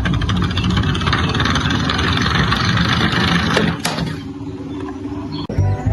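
A car engine running with a fast rattle, a quick rising whine near four seconds, then settling lower and quieter, with a sharp click near the end.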